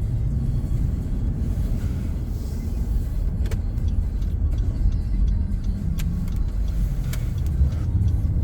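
Car driving, a steady low rumble of engine and road noise, with a few short clicks.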